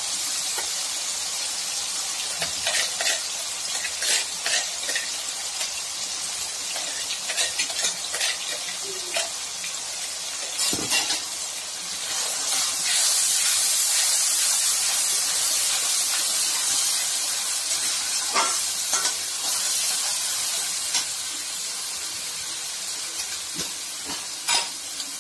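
Wet ground onion, tomato, garlic, ginger and green chilli paste sizzling in hot oil in a steel kadai, with a steel spatula scraping and clinking against the pan as it is stirred. The sizzle grows louder about halfway through as the paste is spread out over the oil.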